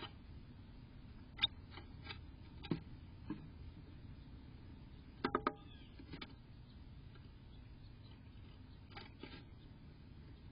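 Brown-headed nuthatch tapping and scrabbling at a birdhouse: scattered sharp ticks and knocks, with a quick run of three taps about halfway through, over faint background hiss.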